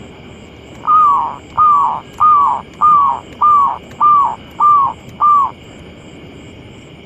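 Zebra dove (perkutut) cooing: a run of eight short notes, each falling slightly in pitch, evenly spaced about two-thirds of a second apart. A steady high drone with a faint regular pulse runs underneath.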